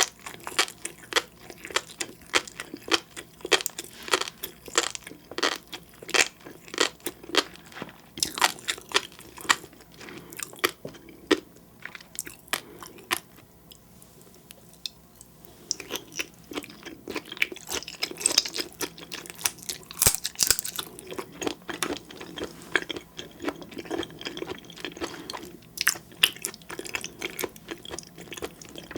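Close-miked eating: a mouth chewing seafood, with rapid crunchy clicks and pops. There is a brief lull about halfway through.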